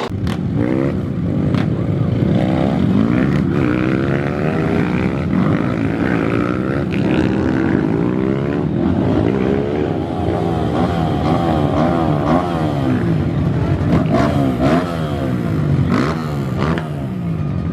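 Several motocross bike engines revving hard together, their pitches sweeping up and down and overlapping as the riders work the throttles.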